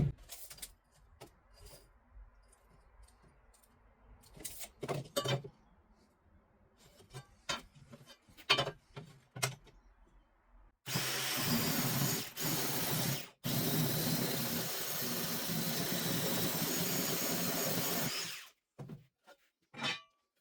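A few scattered knocks, then a power tool running steadily for about seven seconds, cutting construction lumber to size, with two brief dips near the start of the run before it stops.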